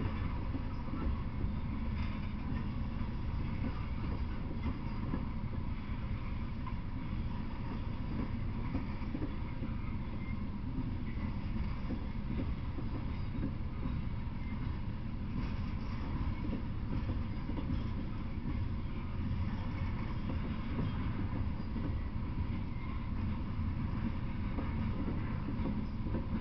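A freight train of open-top hopper cars rolling past at steady speed: a continuous low rumble of steel wheels on rail.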